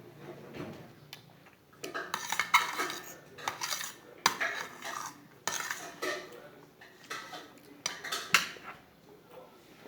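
Someone eating blackberries close to the microphone: irregular sharp clicks, crunches and wet mouth sounds, several a second in clusters with short pauses between.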